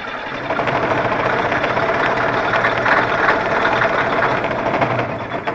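Diesel engine of a CAT 637 scraper running just after a cold start, getting louder about half a second in and easing off near the end.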